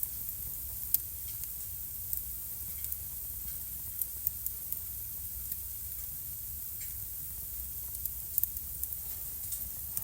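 Wood fire burning in a fireplace: steady soft hiss and low rumble of the flames, with scattered sharp crackles and pops from the burning logs.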